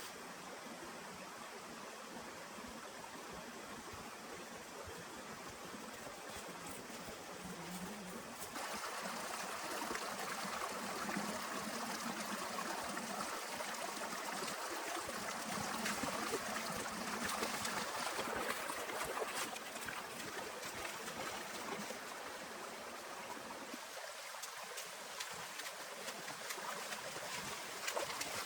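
Steady rushing water noise with many small ticks like drops striking, growing louder about eight seconds in.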